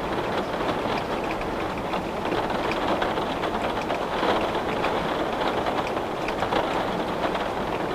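Steady rain with many small drops tapping on a window pane.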